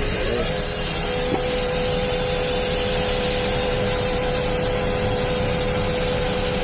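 A machine running steadily under power, a dense mechanical noise with a constant high whine running through it.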